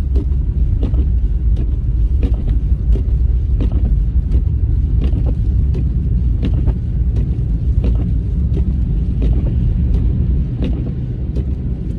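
Car driving on a snowy road, heard from inside the cabin: a steady low rumble of engine and tyres, with frequent small irregular ticks and knocks.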